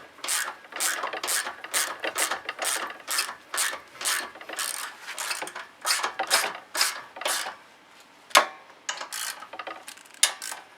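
Ratchet wrench being worked in quick back-and-forth strokes, about two to three rasping clicks a second, running down the valve cover screws on a snowblower's four-stroke engine, with one sharp click about eight seconds in.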